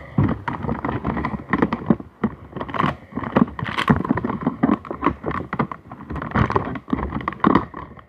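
Objects being rummaged through and handled close to the microphone: irregular knocks, clicks and scraping.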